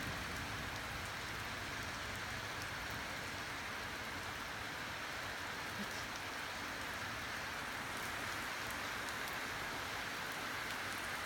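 Heavy rain falling steadily in a thunderstorm, an even hiss with no thunder clap.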